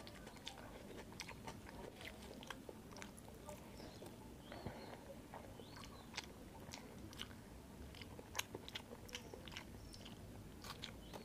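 Close-miked chewing of a mouthful of rice and curry, with frequent wet mouth clicks and lip smacks at an irregular pace.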